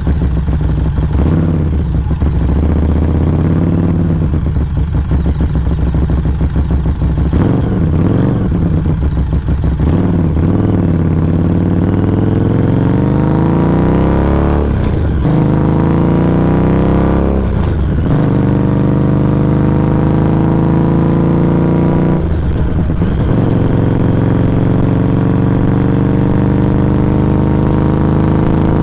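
Harley-Davidson Street 500's V-twin exhaust through a Firebrand Loose Cannon slip-on muffler, heard close to the muffler. At first it runs unevenly at low revs. Then it accelerates, its pitch climbing, with three short dips as it shifts up through the gears.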